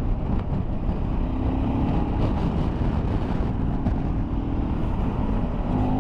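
Motorcycle riding along the road, its engine running steadily under heavy wind rush on the microphone.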